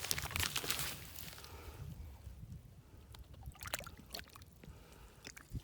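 Water splashing and sloshing in shallow running water, busiest in the first two seconds, then quieter with a few scattered splashes.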